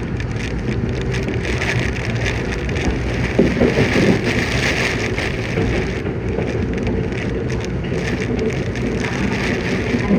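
Yokohama Municipal Subway 3000N train running, heard from inside the car as a loud, steady rushing noise over a low hum, with a few brief knocks about three and a half seconds in.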